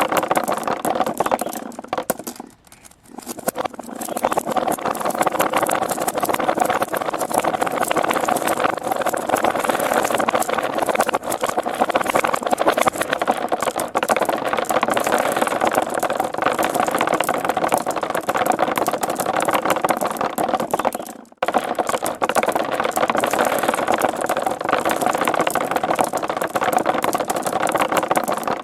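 Many marbles rolling and clattering down a marble run's tracks: a dense, continuous rattle of small clicks that breaks off briefly about three seconds in and again for a moment about two-thirds of the way through.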